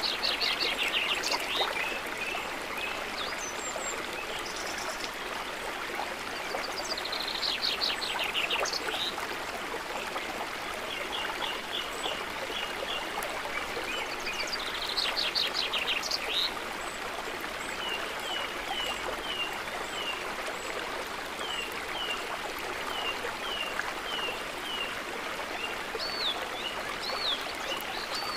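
Steady trickling flow of water with songbirds calling over it. Three times a bird gives a fast, loud trill: at the start, about eight seconds in, and about fifteen seconds in. Between the trills come runs of short repeated chirps, and near the end a few rising whistles.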